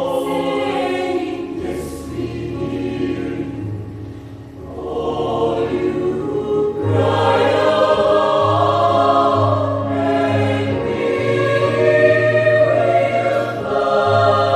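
High-school choir singing in several parts, with sustained chords over low held notes. The singing softens briefly about four seconds in, then swells louder again.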